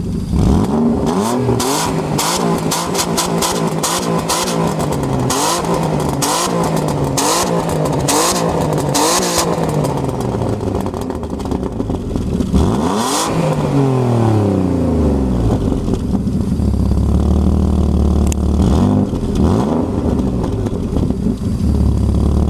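Car engine revved through its exhaust: quick blips about once a second, then one longer rev that falls back to a steady idle, with one more short blip near the end.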